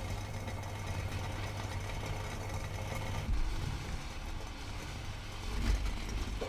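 A steady mechanical hum, like a small electric motor running, with a couple of brief swells in loudness.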